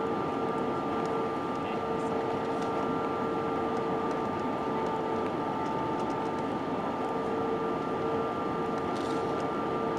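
Steady cabin noise inside an Airbus A320-232 in flight: an even rush of airflow with the steady hum of its IAE V2500 turbofan engines, holding a constant pitch. A few faint light ticks come through, typical of cabin trim.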